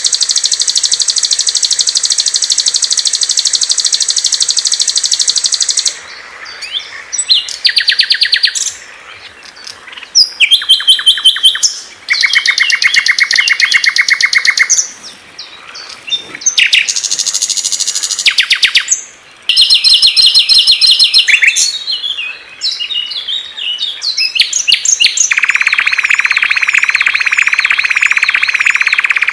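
Songs and calls of several different small songbirds, spliced one after another, with abrupt changes every few seconds. A dense, high, fast trill runs for about the first six seconds. Short, rapid, high phrases follow, and near the end a steady lower trill sounds under quick warbling notes.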